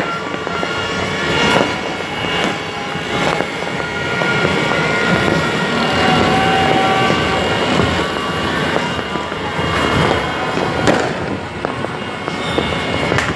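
Fireworks and firecrackers going off all over a city at once: a dense, continuous crackle of distant bangs, with a few sharper, louder bangs late on.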